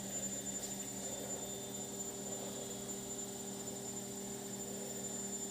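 Steady low hum with a faint high whine from a laundry machine running.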